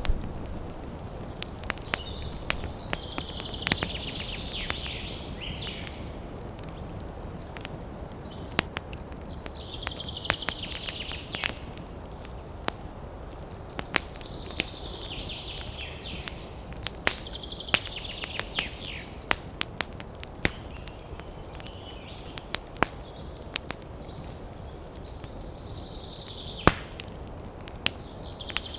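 Campfire crackling with many sharp pops over a steady low rush of wind. A bird chirps in short high bursts every few seconds.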